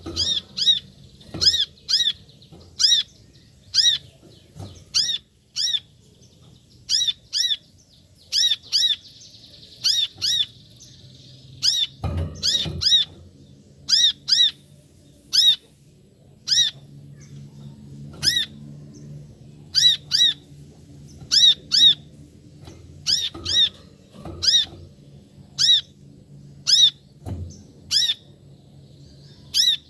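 Brown-throated sunbird (kolibri kelapa) calling over and over: loud, short, sharp notes, mostly in quick pairs, repeated about once or twice a second with brief pauses between runs.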